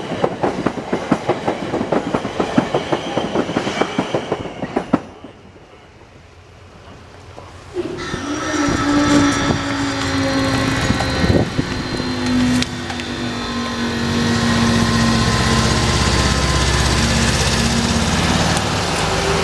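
Passing train with rapid wheel clatter over the rails, ending abruptly about five seconds in. After a short lull, a road vehicle's engine runs with a steady hum and a low rumble.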